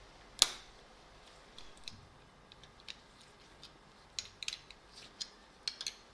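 A sharp click about half a second in, followed by scattered, irregular light clicks and taps.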